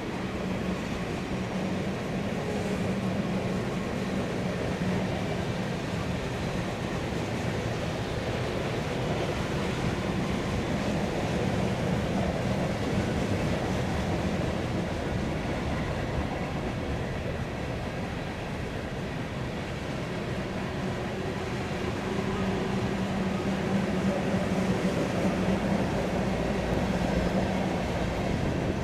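Freight train rolling past: a continuous rumble with a steady low drone that grows somewhat louder in the last third.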